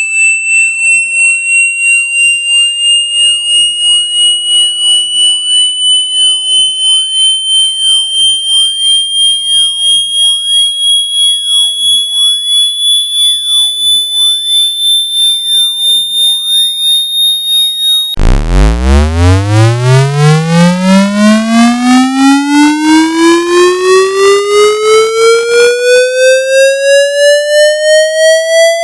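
Generated water-ejection test tone: a high-pitched tone gliding slowly higher, pulsing a few times a second. About 18 seconds in it switches abruptly to a buzzy tone that starts as a deep hum and sweeps steadily upward in pitch, a vibration sweep meant to shake droplets out of a phone's charging port.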